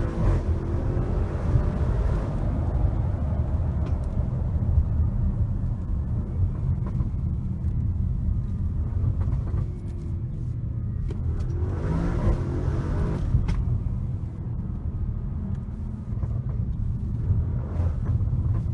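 Audi RS7 Performance's twin-turbo 4.0-litre V8 heard from inside the cabin, a deep rumble under way that rises in pitch as the car accelerates, once at the start and again about twelve seconds in.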